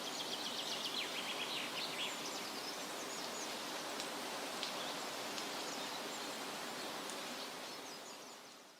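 Forest ambience: a steady background hiss with birds calling, a quick run of high chirps in the first two seconds and scattered calls after, fading out near the end.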